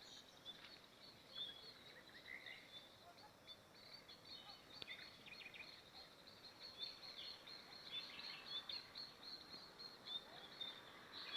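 Faint chorus of small birds chirping and twittering, many short, quick chirps overlapping, over a low background hiss.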